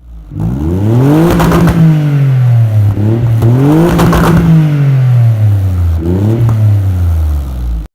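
Nissan 300ZX Twin Turbo's twin-turbo V6 revving through a cat-back exhaust with the middle muffler cut out and the catalytic converters gutted. It revs up and falls back twice, each long rev followed by a short blip, and cuts off suddenly near the end.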